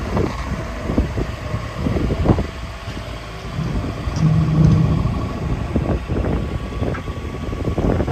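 Volvo EW140D wheeled excavator running, its diesel engine humming with repeated short knocks and clanks. The engine note rises into a louder steady hum for about a second, about four seconds in.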